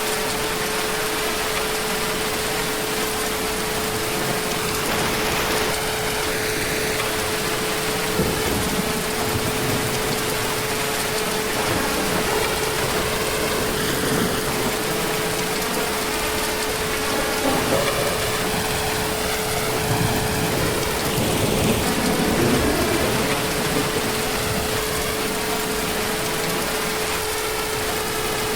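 Heavy rain falling steadily, with low rolls of distant thunder swelling up several times, the strongest a little past the middle. A steady tone runs under the rain throughout.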